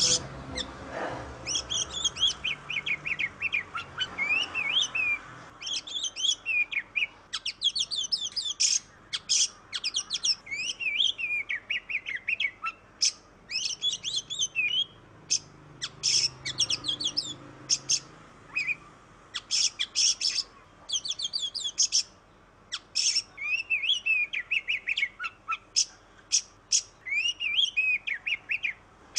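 Oriental magpie-robin (kacer) singing a lively song of quick, varied whistled phrases that glide up and down, broken by short pauses.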